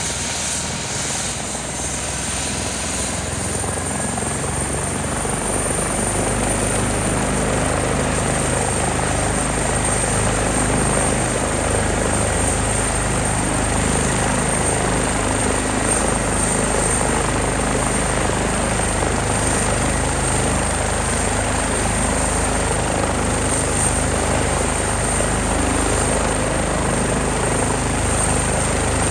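Airbus EC145T2 helicopter's twin turbines and rotor running steadily, getting a little louder over the first few seconds.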